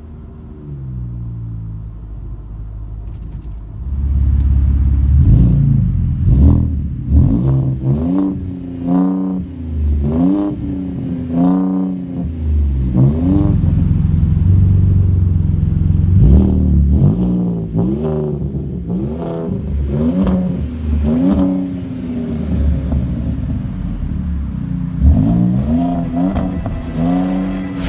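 2018 Ford Raptor's 3.5 twin-turbo EcoBoost V6 through a Street Demon performance exhaust, revved hard in a run of quick blips, the pitch climbing and dropping each time.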